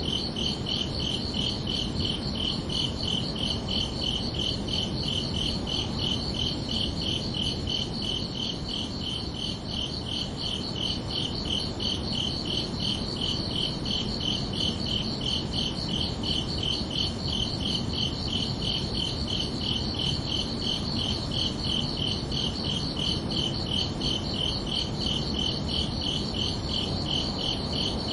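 Crickets chirping in a steady, even rhythm of several high chirps a second, over a constant low background hum of night ambience.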